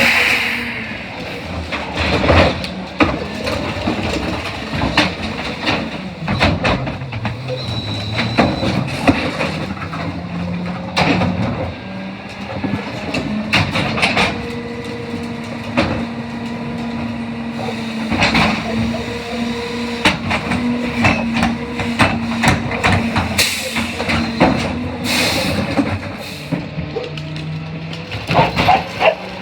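CNG-powered New Way rear-loader garbage truck running, its engine hum rising and falling, with frequent clanks and bangs of bins and trash throughout.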